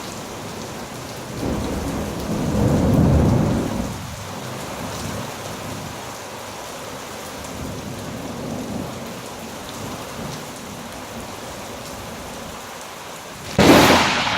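Steady heavy rain during a thunderstorm. A low rumble of thunder swells and fades from about a second and a half in, then a sudden very loud thunderclap cracks near the end: a close lightning strike.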